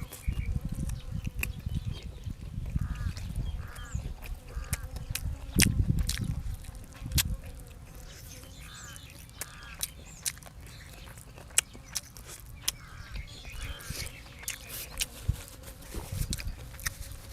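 Close-up eating sounds: chewing and wet mouth clicks, heaviest about six seconds in. Behind them a bird gives short calls that repeat in several groups.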